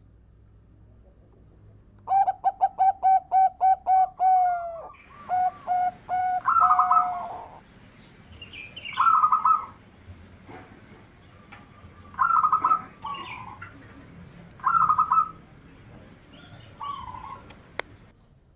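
Zebra dove (perkutut) song: a rapid run of about ten clipped coos, then several shorter, higher call phrases spaced a few seconds apart.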